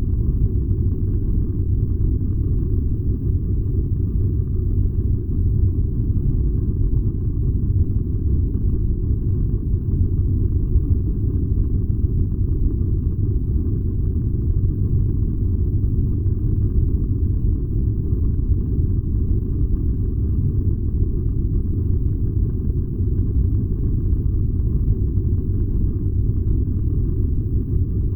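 Furnace running with a steady, deep rumble that holds even and unchanging throughout.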